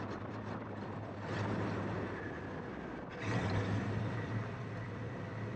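Honda Africa Twin's parallel-twin engine running steadily under way, with wind noise. The engine grows louder twice: about a second in, and again just after a brief drop a little past three seconds.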